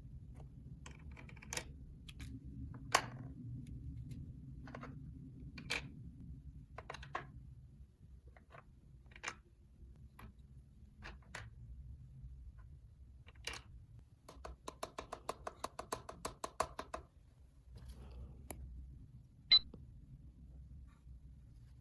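Small plastic toy pieces clicking and tapping as they are handled. There is a quick run of clicks, about ten a second, for a couple of seconds past the middle, and a sharp click near the end.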